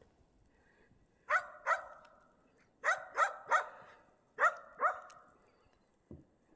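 Shetland sheepdog barking: seven sharp barks in three quick bursts of two, three and two. A soft low thump follows near the end.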